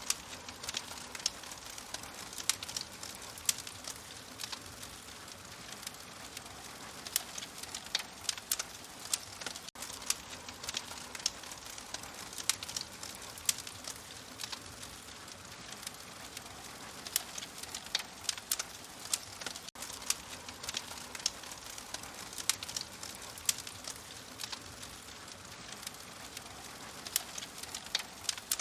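Fire crackling steadily, with frequent sharp, irregular pops and snaps over a soft hiss.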